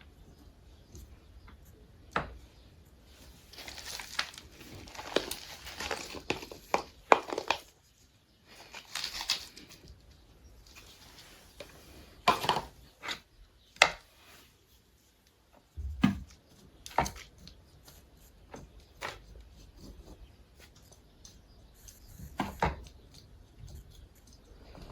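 Irregular household handling noises: scattered clicks and knocks with bouts of rustling, as of things being picked up, moved and set down in a small room.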